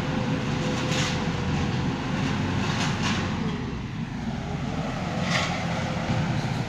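Heavy truck tractor unit's engine running with a steady low rumble, with a few brief hisses over it.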